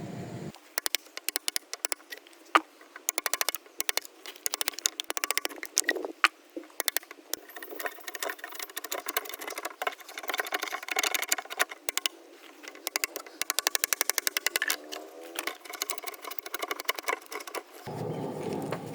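Rapid runs of sharp clicks and knocks from hand-tool work on a green oak sill beam, many per second in bursts with short gaps.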